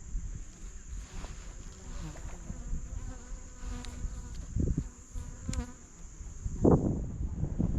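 A flying insect buzzing close to the microphone, its hum coming and going between about three and five and a half seconds in, over a steady high-pitched insect drone. Low wind rumble runs underneath, and a loud thump comes near the end.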